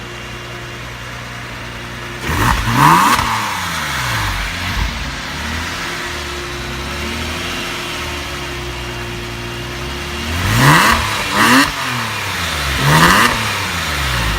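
Porsche 911 (997) Carrera S flat-six with Supersprint headers and tailpipes, idling and free-revved while standing still: one rev about two seconds in, then three short blips near the end, settling back to idle between them.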